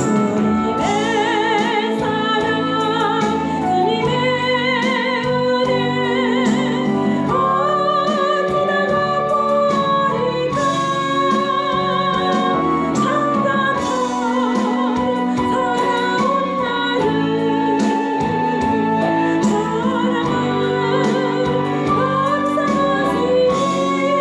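Korean praise song (Christian gospel) sung with a wide vibrato over instrumental accompaniment, part of a praise medley.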